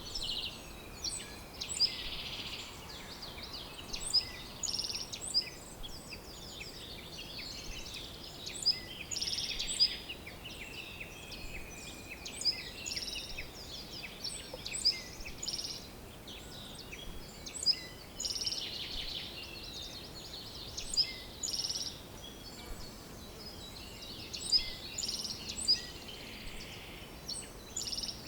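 Several songbirds singing and chirping at once: frequent short, high chirps, trills and whistles overlapping, over a faint steady background hiss.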